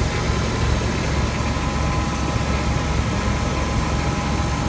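1990 Chevrolet Suburban's engine idling steadily.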